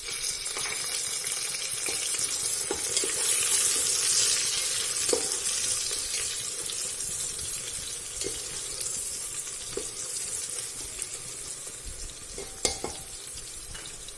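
Green chillies, mint and coriander sizzling in hot oil and ghee with fried onions as they are stirred in the pan. The sizzle swells over the first few seconds and then eases off, with a few light clicks of the spoon against the pan.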